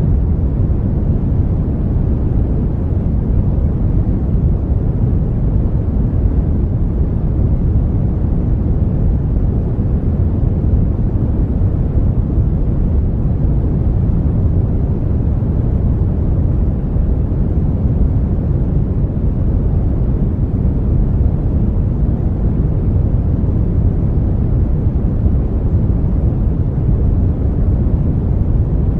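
Brown noise: a steady, unchanging deep rushing hiss, heaviest in the low rumble and fading off towards the top.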